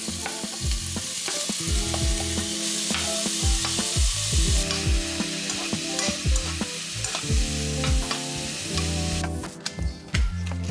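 Shrimp sizzling in hot oil in a wok as they are tipped in and stirred with a spatula. The sizzle cuts off near the end.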